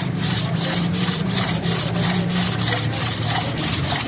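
Rapid back-and-forth rubbing strokes across the flat metal face of an engine block, about three strokes a second, with a steady low hum underneath.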